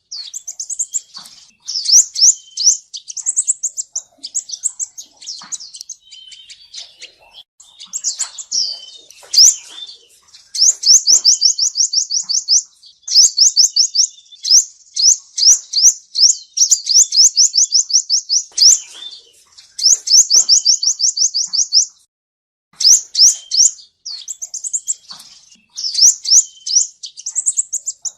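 Male sunbird (the Vietnamese 'seven-colour' sunbird) singing loudly: high, sharp chirps mixed with fast trills of quick rising notes, with one brief pause about two-thirds of the way through. This is a song recording of the kind played as a lure call for trapping.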